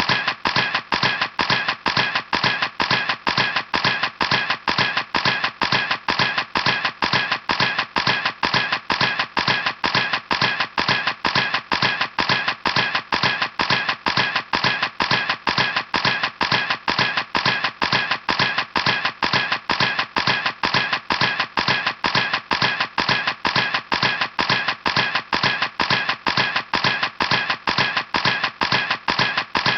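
Camera shutter clicking over and over in a steady, even rhythm, about three clicks a second.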